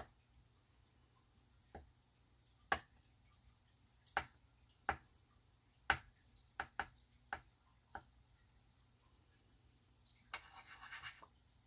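A small tool tapped down on paper about nine times at irregular intervals, then a brief scratchy rubbing on the paper near the end.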